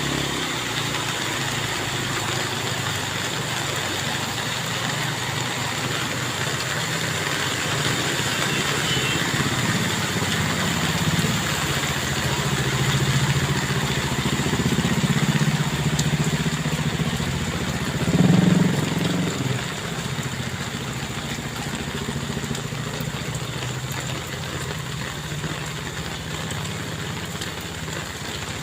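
Heavy rain pouring steadily, with a low rumble underneath that swells in the middle and is loudest at about two-thirds of the way through.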